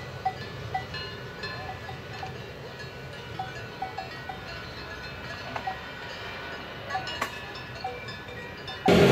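Cowbells ringing in short, irregular clanks over a faint steady background. Just before the end, a much louder train noise cuts in suddenly.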